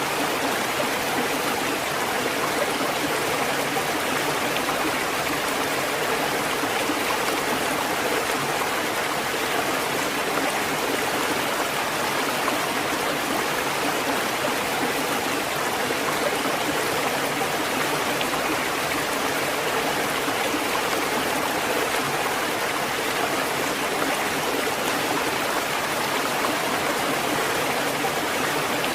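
Steady rushing water, an even hiss with no rise and fall of breaking waves.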